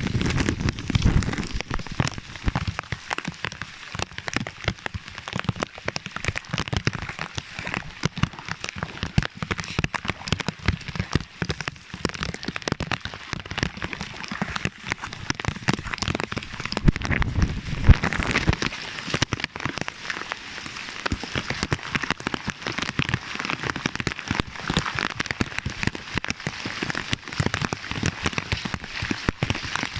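Heavy thunderstorm rain, a dense patter of drops striking close by. A low rumble swells briefly about two-thirds of the way through.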